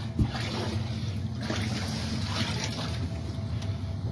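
Standing floodwater sloshing, with a steady low hum underneath and one thump just after the start.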